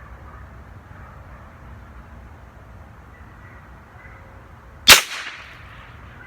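A single .22 rifle shot about five seconds in: one sharp crack with a short echo trailing off after it.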